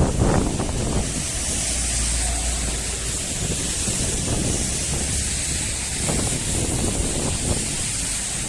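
Wind buffeting the microphone, a steady low rumble under an even hiss.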